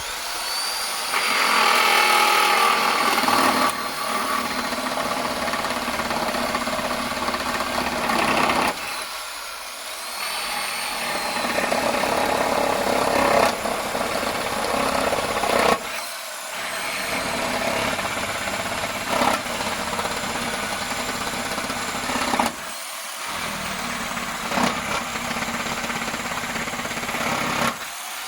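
Reciprocating saw (Sawzall) with a carbide blade cutting through pallet wood with nails, running in long cuts with a few brief pauses.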